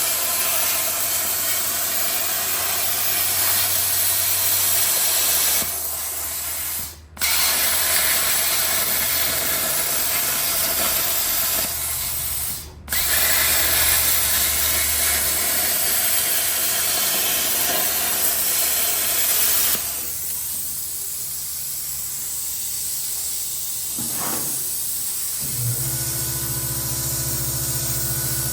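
Metalworking tool on sheet steel hissing steadily. It cuts out briefly twice and runs quieter for the last third.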